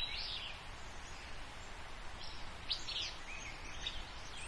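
Birds chirping and singing in short phrases, at the start and again from about two seconds in, over a faint low background rumble.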